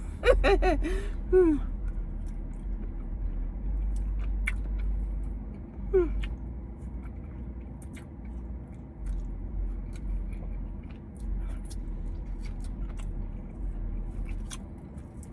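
A person chewing a big mouthful of salad, with scattered small clicks of a utensil and a short hum of pleasure about six seconds in, over a steady low rumble.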